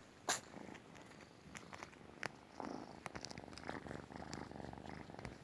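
Domestic cat purring, with a sharp click just after the start and a few quieter clicks.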